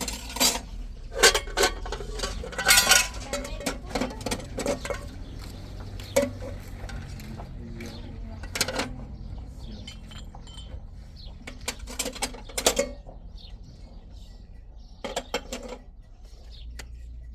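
Irregular clinks and knocks of hard objects handled one after another, over a low steady rumble.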